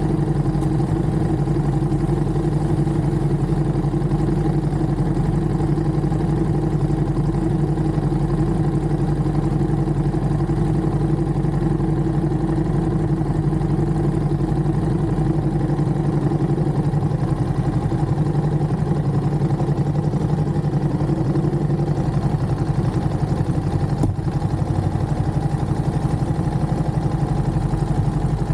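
Ducati Monster motorcycle's L-twin engine running at a steady, unchanging pitch.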